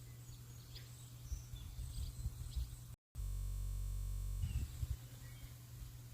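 Outdoor ambience of small birds chirping now and then over a steady low rumble. About halfway the sound drops out for a moment, then a flat, steady buzzing hum lasts about a second before the chirping ambience returns.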